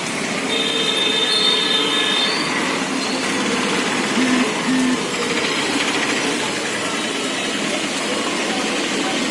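Street noise of passing vehicles: a steady wash of traffic sound, with a thin high squeal in the first two seconds and two short low beeps about four seconds in.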